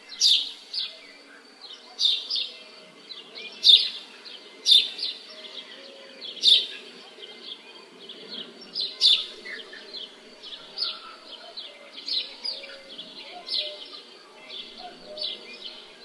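Forest ambience: a bird gives short, sharp calls over and over, about one every second or two, louder in the first half. A soft, steady background sound lies underneath.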